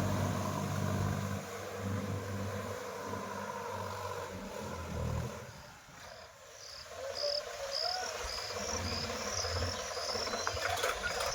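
Sonalika 47 4x4 tractor's diesel engine running under load, dropping away about six seconds in and then coming back more faintly. From that point an insect chirps in a steady high rhythm, about one and a half chirps a second, for several seconds.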